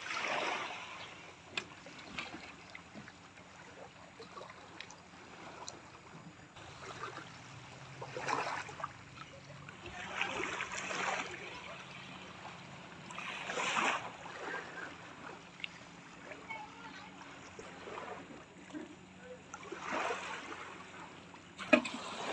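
Water splashing in swells of about a second, several times, over a faint low hum.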